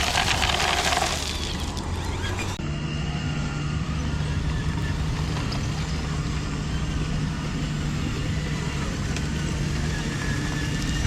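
Radio-controlled construction models working: a loud, noisy rattling rush for about the first second, then a steady low hum of small motors and gearing with a faint whine on top.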